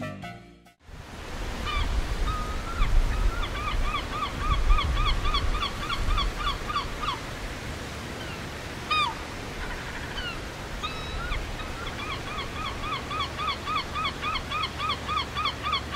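A bird calling over and over, about three to four short calls a second, in two long runs with a few single calls between, over a low outdoor rumble.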